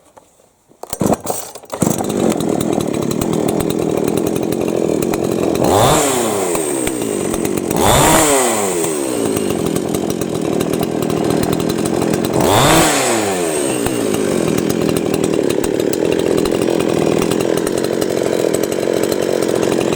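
Chinese two-stroke chainsaw starting up about two seconds in, then idling steadily with three brief throttle blips that rise and fall back to idle. With its carburetor's fuel level set low, it now settles back to idle instead of racing.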